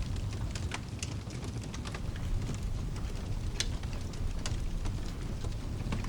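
Mixed rain and fireplace ambience: a steady low rumble of rain under scattered, irregular sharp crackles, like burning logs popping in a fireplace.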